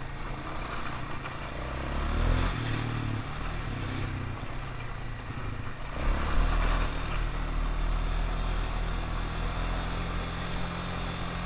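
ATV engine running while riding, with the throttle changing. It gets louder about two seconds in and again about six seconds in.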